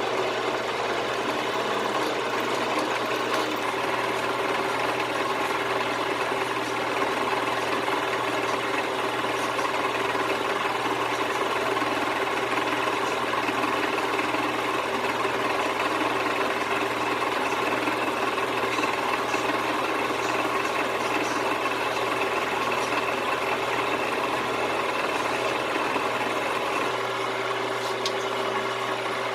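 A workshop machine tool running steadily, its motor giving a constant hum with a higher whine over it; the low end shifts slightly a few seconds in and again near the end.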